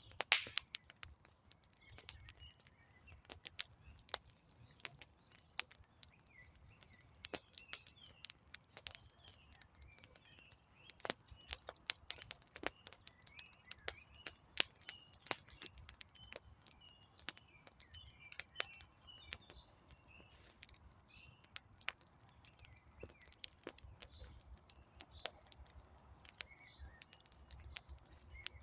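Wood campfire crackling with many irregular sharp pops, while birds chirp in the background.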